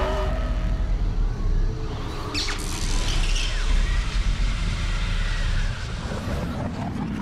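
Animated sound effects of a car's engine running hard over a deep, steady rumble, with a sharp whoosh about two and a half seconds in.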